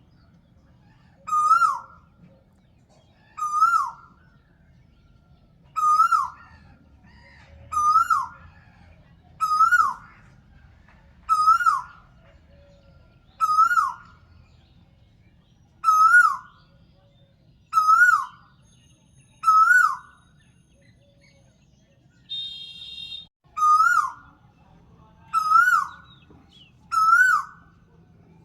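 A bird call repeated at a very even pace: one short whistled note that rises and then drops, about every two seconds. A brief buzzy sound breaks in once, about three-quarters of the way through.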